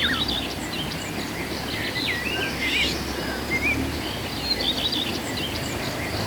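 Several birds chirping and twittering in short, varied calls over a steady, even background rush.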